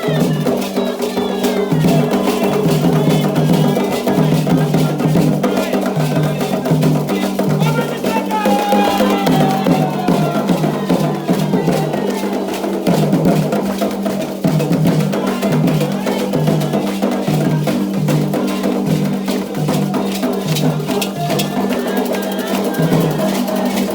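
Candomblé ritual music: atabaque hand drums beating a steady, driving rhythm with sharp bell or wood-block strikes, and voices singing over it.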